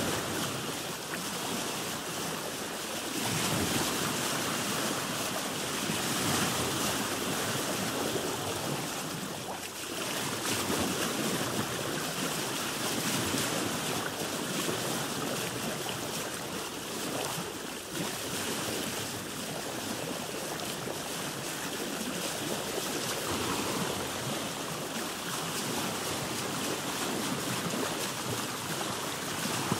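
Sea water washing and surging around a boat. It is a continuous rushing wash of waves that swells and eases gently every few seconds.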